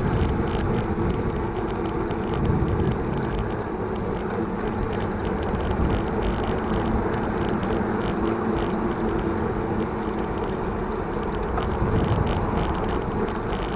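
Wind rushing over the microphone and road rumble from a moving bicycle, with light rattles ticking over it.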